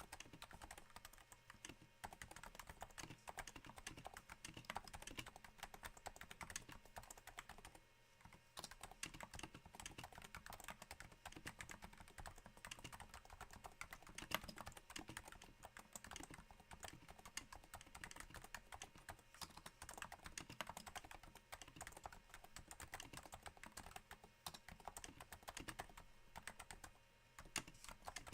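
Quiet, steady typing on a Cooler Master Novatouch keyboard, its Topre switches damped with Hypersphere rings: a dense patter of soft keystrokes that sounds a little like rain, with brief pauses about eight seconds in and near the end.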